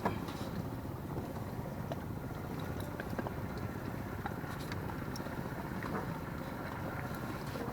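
Wind buffeting the microphone, a steady low rumble with a few faint ticks over it.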